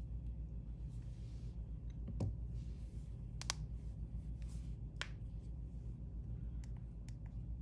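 A few light clicks and taps of small tools and parts being handled on a workbench, over a steady low electrical hum.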